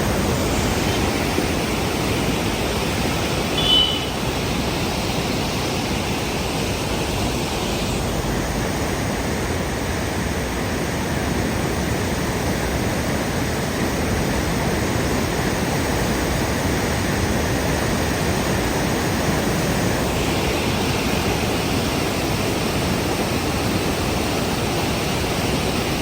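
Steady rush of the swollen Godavari River in flood, a continuous roar of fast-flowing water. A brief high-pitched tone sounds once about four seconds in.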